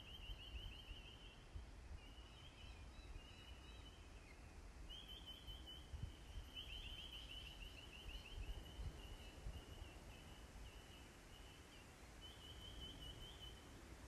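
Faint birdsong: a small bird's high, rapid trills, each a second or so long, repeated again and again over a low rumble.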